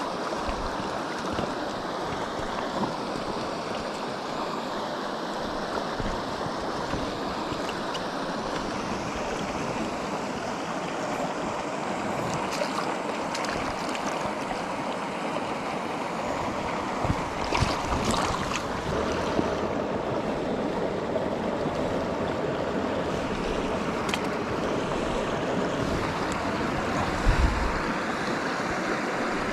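Mountain stream water rushing steadily, with a few brief knocks a little past the middle and near the end.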